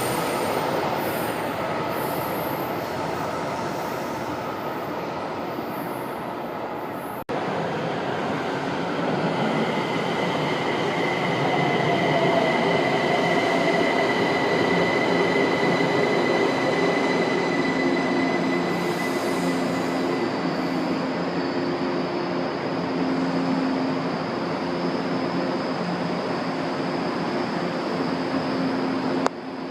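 São Paulo Metro Line 2 train running through the station: a continuous rumble of wheels on rail, with steady high whining tones. The sound breaks off abruptly about seven seconds in and goes on with a different train.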